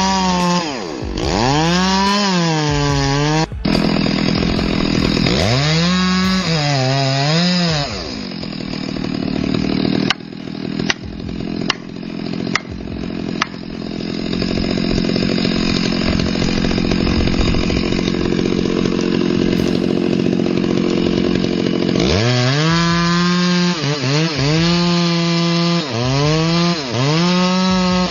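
Chainsaw engine revved up and down over and over, rising and falling in pitch about every second and a half. In the middle it runs at a steady high level with a dense, noisy sound, as when the chain is cutting through wood.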